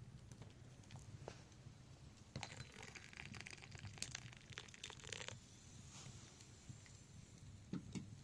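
Faint rustling and crinkling with light clicks, like something being handled, for about three seconds in the middle, over a low steady hum.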